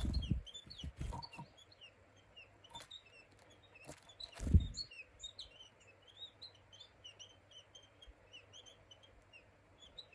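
Small wild songbirds giving many short, high chirping calls, with a few low thumps near the start and a louder one about four and a half seconds in.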